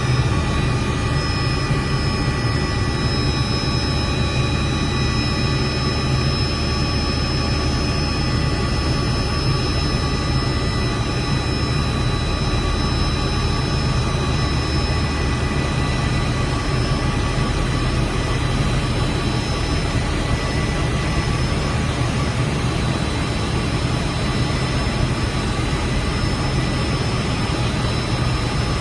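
Helicopter's turbine engine and rotor running steadily, with a steady high whine over a low, loud drone.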